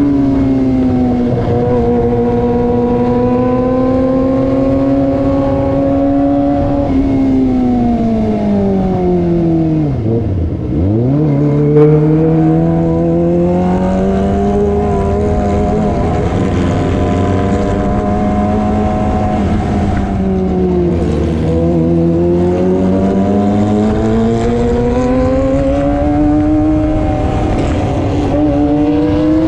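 Kawasaki ZX25R's high-revving inline-four engine through a loud aftermarket racing exhaust while riding, its pitch rising and falling with throttle and gear changes. About ten seconds in, the revs drop sharply and then climb again.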